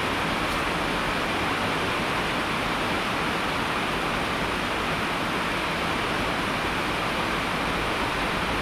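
Steady rain falling, an even rushing hiss with no separate drops or pauses.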